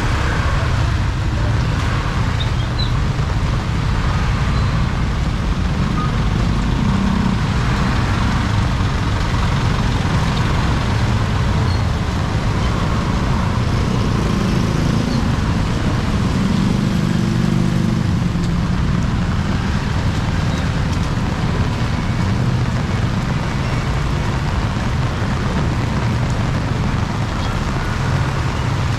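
Steady noise of heavy rain and street traffic, with vehicle engines swelling and fading as they pass, once about a quarter of the way in and again just past halfway.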